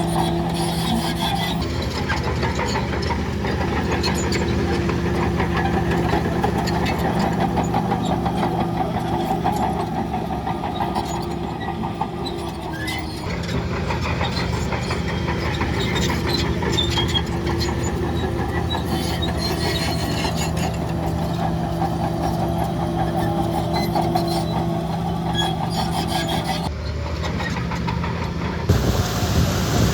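Heavy diesel earthmoving machinery running steadily, with a steady engine hum and frequent clicks and knocks. Near the end, a rush of wind noise on the microphone comes in.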